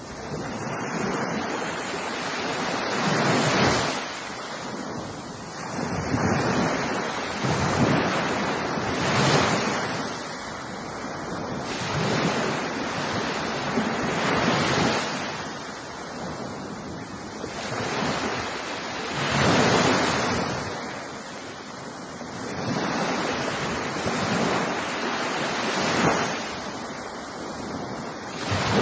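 Ocean surf: waves breaking and washing on a beach in slow, recurring swells of rushing noise, each rising and falling away over a few seconds.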